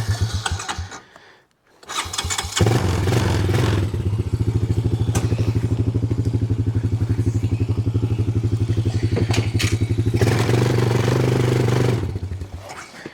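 Small engine of a pulling vehicle running, cutting out about a second in, then started again and running steadily with an even pulse. It gets louder and fuller around ten seconds in, as if under more throttle, and stops near the end.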